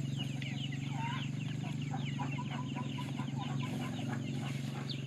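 Chickens: a flock's rapid, high, downward-sliding peeping, with a run of short clucks in the middle, over a steady low hum.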